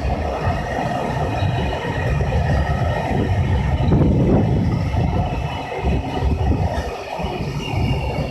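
Freight train hauled by a JR Freight EH500 'Kintaro' electric locomotive passing by, a steady rumble of wagons rolling over the rails.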